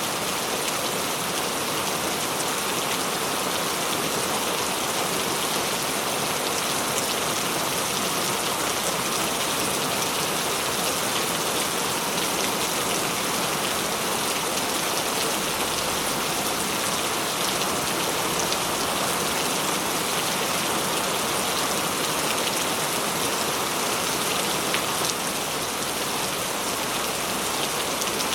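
Steady heavy rain falling and pattering on surfaces, an even dense hiss with scattered individual drop ticks.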